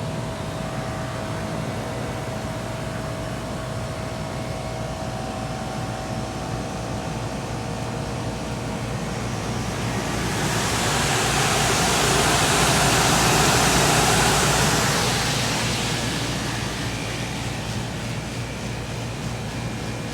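2012 Comfortmaker commercial package air-conditioning unit running with a steady hum and a thin steady tone. Only one of its fans is running, because a capacitor has failed. About halfway through, a broad rushing noise swells up and fades away over several seconds.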